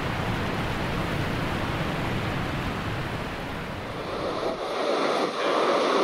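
Steady rush of ocean surf and wind. About five seconds in the deep rumble falls away, leaving a louder, higher wash.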